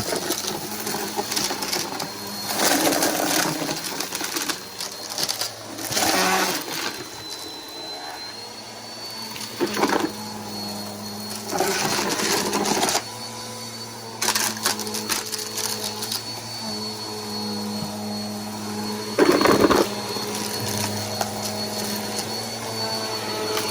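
Bissell Powerforce Helix upright vacuum cleaner running, its motor giving a steady hum and a thin high whine, with louder rushing surges every couple of seconds as it is pushed back and forth.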